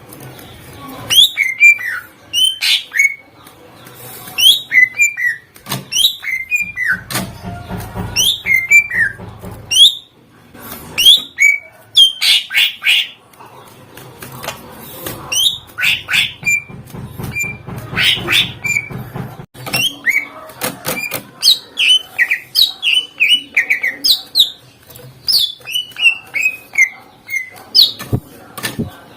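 Cucak ijo (greater green leafbird) singing continuously: loud, rapid phrases of sharp downslurred whistles and chatter, a song full of imitated calls of other birds.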